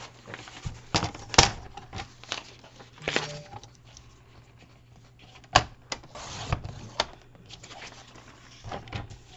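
Paper being cut and handled on a craft table: a scattering of sharp clicks and a few short rustles, over a faint steady low hum.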